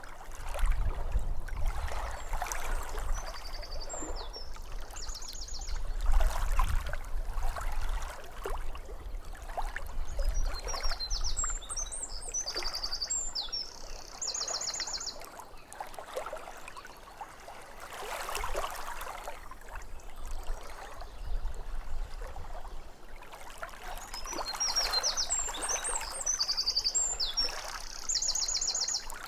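Small waves lapping at a lake shore in uneven surges. A songbird sings the same short high phrase three times, each ending in a fast buzzy trill.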